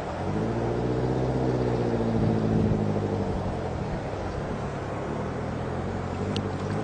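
A motor engine running steadily as it passes, growing louder over the first two to three seconds, then fading but still heard to the end.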